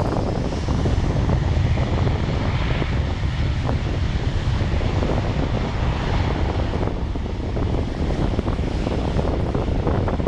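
A passing airliner's engines running steadily, a continuous loud rumble.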